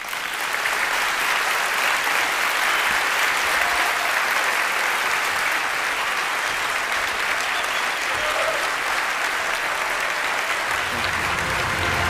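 Audience applauding steadily after a talk: dense, even clapping from a large crowd that starts abruptly and holds at one level.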